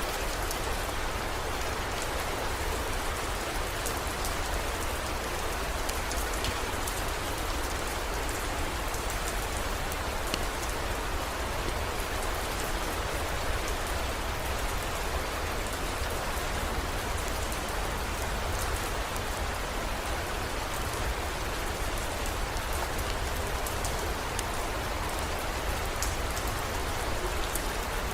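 Heavy rain falling steadily, an even hiss with scattered faint drop ticks and a steady low rumble underneath.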